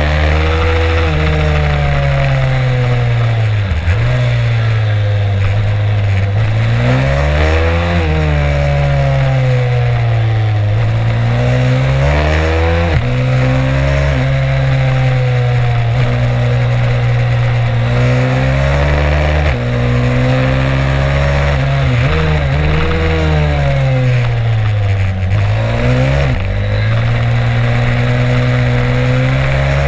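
Stomp 140 pit bike's single-cylinder four-stroke engine at full throttle, heard from on board, its pitch climbing and dropping back again and again as the rider accelerates, shifts and slows for corners.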